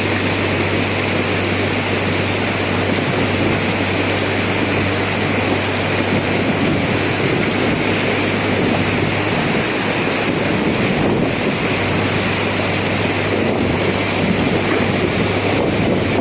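Steady loud rushing of a flood-swollen river, with a low hum underneath that drops out briefly a little after halfway.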